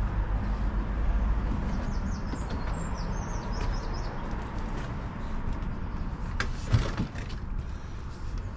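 Steady low rumble with small birds chirping a few seconds in, then a sharp knock with a couple of clicks about two-thirds of the way through, from handling the unscrewed wooden shed door.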